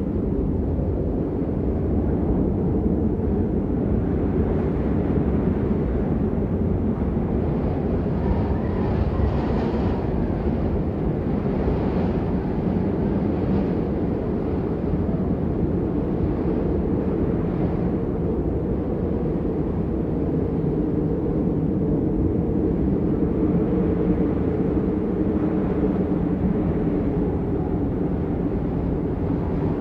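Steady rain, an even, unbroken wash of noise that sounds deep and muffled, with little hiss at the top.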